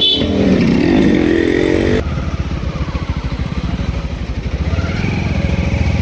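Motorcycle engine running. The sound changes abruptly about two seconds in, then settles into a steady, even low beat of engine firing.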